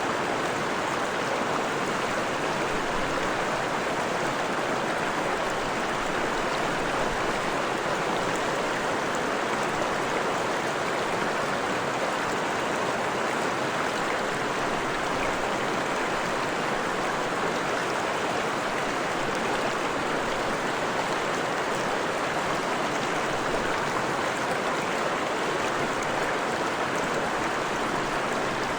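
Freshwater forest stream flowing: a steady, even rush of running water with no breaks or changes.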